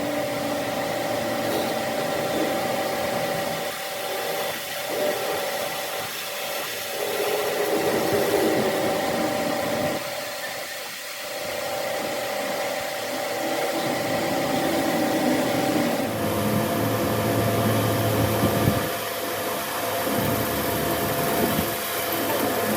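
An electric power tool or machine running steadily, a whine of several steady tones over a hiss, whose tone shifts slightly about two-thirds of the way through.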